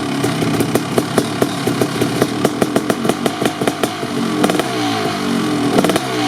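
1990 Kawasaki KX500 500cc two-stroke dirt bike engine, breathing through an FMF Gnarly pipe and Pro Circuit silencer, running at idle while it warms up, with an irregular, popping two-stroke beat. In the second half the throttle is blipped a couple of times and the pitch rises and falls.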